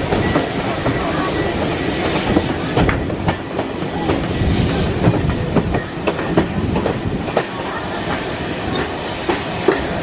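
Heritage steam train's carriage wheels running on the track, heard from on board: a steady rumble with irregular clicks and knocks from the rail joints and pointwork.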